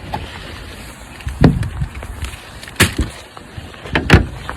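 Plastic wheelie bin handled as a dog-poo bag goes in: about five sharp knocks and thuds, the loudest about a second and a half in and near the end.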